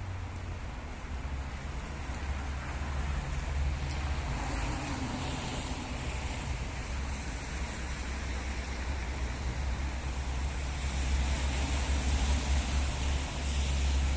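Evening city ambience in rain: a steady hiss over a low rumble of distant traffic, growing a little louder in the second half.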